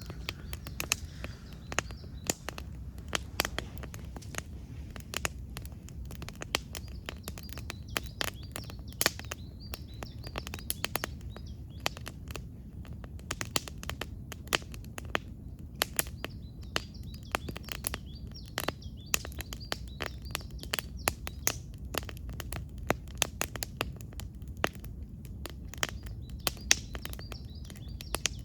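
Wood campfire crackling, with many irregular sharp pops and snaps over a low steady rumble. Birds chirp now and then in the background.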